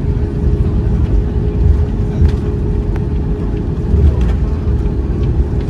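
Airliner cabin noise aboard a Boeing 737 MAX 8 after landing: a steady low rumble with a constant hum.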